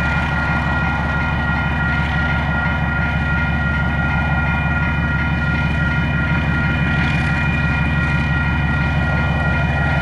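KiwiRail DX-class diesel-electric locomotive running steadily: a continuous low engine drone with a steady high-pitched whine over it.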